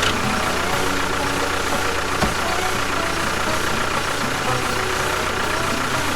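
An engine running steadily, cutting in suddenly.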